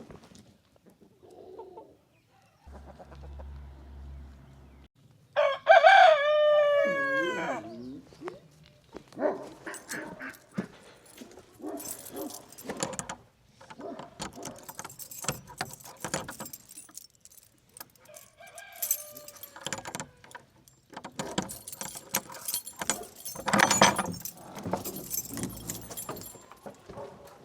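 A rooster crows once, loudly, about five seconds in: a long call that drops in pitch at the end. A fainter call follows near the two-thirds mark, with chickens clucking and scattered short clicks and rustles through the rest.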